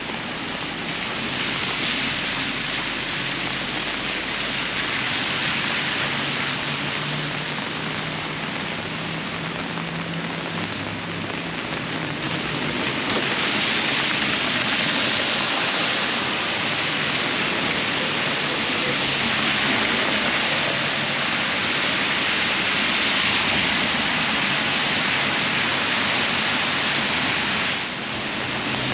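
Heavy rain falling on a city street and on an umbrella overhead, a steady even patter that gets louder a little under halfway through, with car traffic on the wet road.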